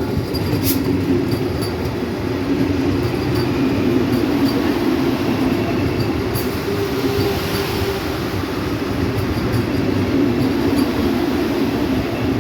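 Vande Bharat Express electric trainset rolling along the track: a steady rumble of wheels on rails with faint repeated clicks.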